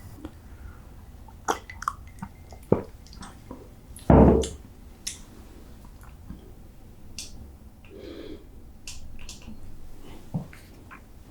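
Close-miked handling of a stack of taquitos: scattered small clicks and soft wet, squishy sounds, with one loud low thump about four seconds in.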